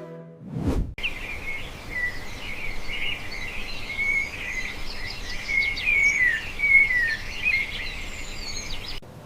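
Songbirds chirping and whistling in quick, varied calls over a steady background hiss, as a morning ambience. A brief downward swoosh comes just before the birdsong begins.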